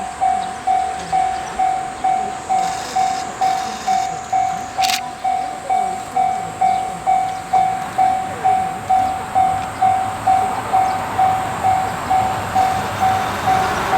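Japanese railway level-crossing bell ringing in a steady rhythm, about two strikes a second, each strike a single tone that dies away. A sharp click about five seconds in, and broader noise building near the end.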